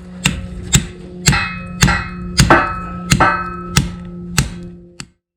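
Hammer striking a steel wedge anchor to drive it into its drilled hole, about two blows a second, each blow ringing metallically. A steady low hum runs underneath, and the sound cuts off abruptly near the end.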